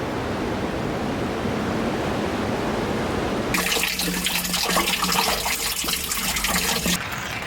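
Running water rushing steadily. About three and a half seconds in it cuts abruptly to a brighter, splashing, crackly water hiss, which cuts off again near the end.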